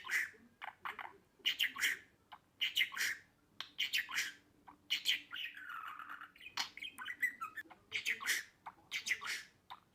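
Pet budgerigar chattering: quick clusters of chirps and squawks about once a second, with a longer warbling phrase midway.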